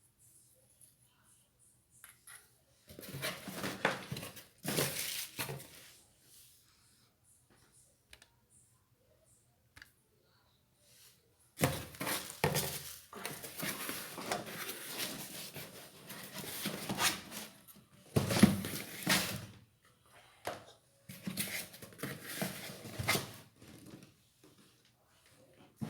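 Ceiling fan parts and their packaging being handled: irregular rustling and light clattering in bursts, with a quiet pause between about 6 and 11 seconds in.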